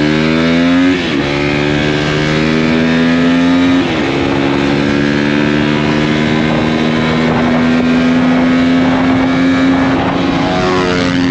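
Single-cylinder four-stroke off-road racing engine under hard acceleration. Its pitch climbs and drops at upshifts about a second in and again near four seconds, then holds at high revs on a long pull, with a brief dip in revs near the end.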